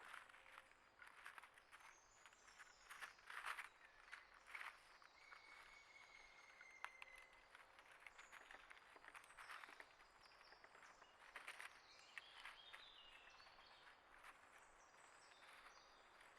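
Faint bird chirps and whistled calls, including one held note and a short falling series of notes, over many small clicks and scratching sounds.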